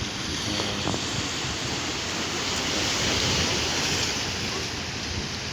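Atlantic surf washing against the shore in a steady rush that swells about three seconds in and then eases, with wind on the microphone.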